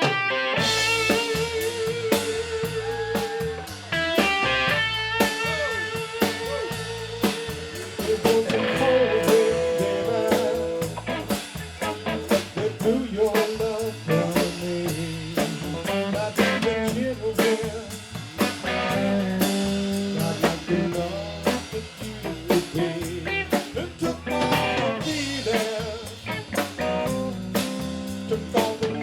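A blues band playing an instrumental passage: electric guitar lines with wavering, bent notes over a drum kit keeping a steady beat.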